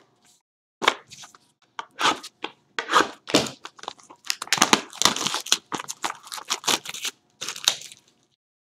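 Plastic wrapping being torn open and crinkled by hand: an irregular run of short rustling tears.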